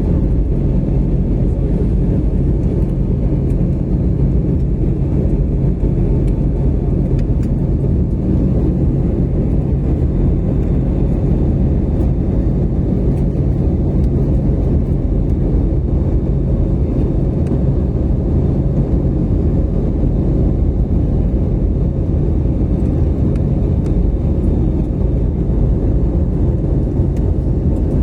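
Steady low rumble of an airliner's engines heard from inside the passenger cabin, with a low hum under it that fades out about two-thirds of the way through.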